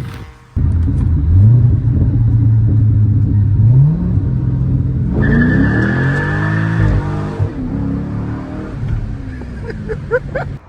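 Car engine accelerating, its pitch climbing in two steps, then falling away as it passes by. A high steady whine sounds over it for a couple of seconds about halfway through.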